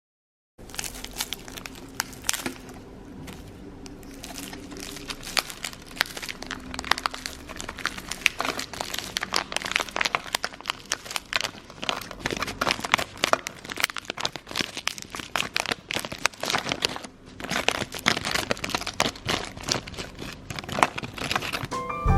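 Plastic wrapper of a Loacker wafer packet crinkling and crackling as it is handled and unpacked. The crackles run densely, with a short lull about 17 seconds in.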